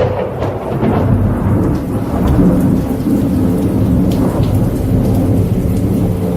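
Steady rain with thunder rumbling low and continuously underneath, and faint raindrop ticks on top.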